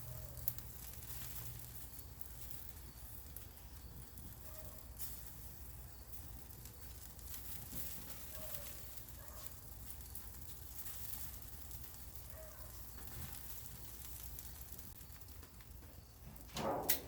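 Buttered chicken wings sizzling faintly on an oiled rack as they finish cooking, a steady low hiss with scattered light crackles.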